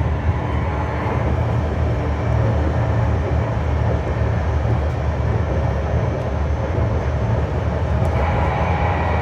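Berlin GT-type tram in motion, heard on board: a steady low rumble of wheels and running gear on the rails. A higher whine joins in about eight seconds in.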